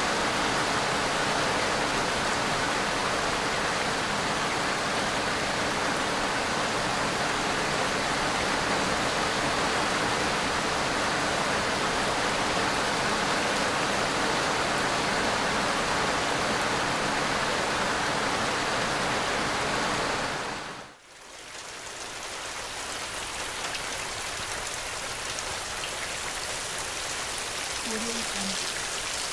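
Steady rain falling, a dense even hiss of drops. About two-thirds of the way through it fades almost to nothing for a moment, then comes back softer and gradually builds up again.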